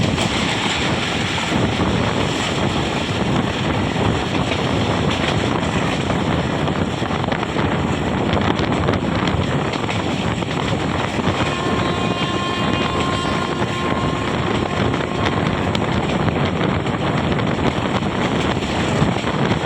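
Passenger train running, heard from on board: a steady rumble of the train on the track with wind blowing on the microphone. A little after the middle, a pitched tone with several overtones sounds for about three seconds.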